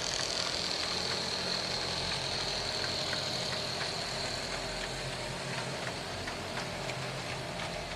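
Large-scale model train with three Aristocraft GP40 locomotives pulling a long string of cars around a track loop: a steady running rumble of motors and wheels on rail with faint ticks, under a high steady whine that eases slightly over the seconds.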